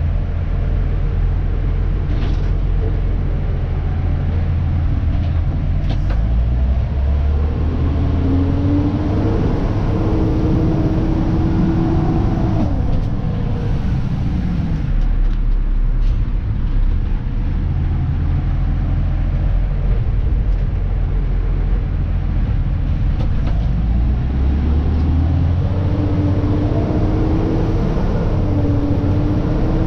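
Dennis Elite 2 garbage truck's diesel engine heard from the cab, running low and steady and twice rising in revs for several seconds, with a whine, before dropping back. A few short knocks early on.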